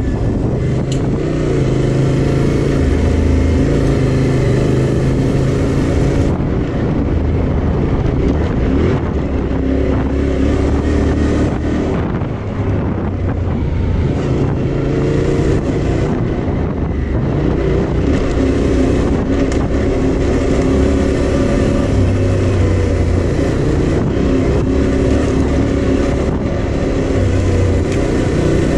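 Yamaha Ténéré 700's parallel-twin engine running under way. Its pitch holds for a few seconds at a time and then steps up or down as the throttle and road speed change.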